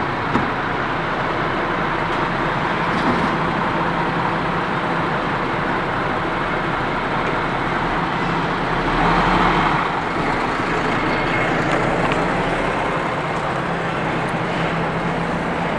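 Steady road traffic noise with a vehicle engine running, swelling briefly about nine seconds in.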